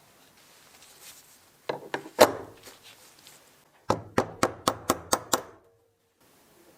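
Workshop knocks and taps from work on drill-press parts: a couple of knocks about two seconds in, then a quick run of seven sharp, evenly spaced taps, about five a second, ending abruptly.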